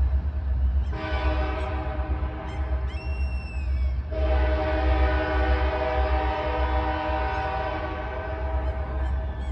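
A diesel locomotive's multi-note air horn sounds in long blasts, breaking off briefly about a second in and again about four seconds in, over the steady low rumble of the engine. A short high falling bird call cuts in around three seconds in.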